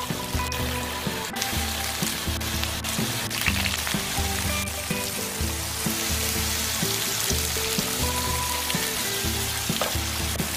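Slabs of tofu sizzling in hot perilla oil in a frying pan, the sizzle growing denser as more slabs are laid in.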